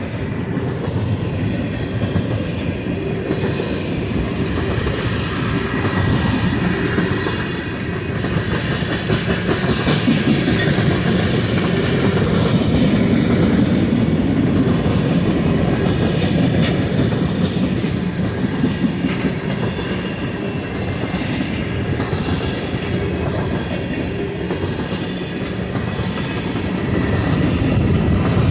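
Freight cars of a long Union Pacific manifest train rolling past at track speed: a steady rumble with the wheels clacking over rail joints again and again.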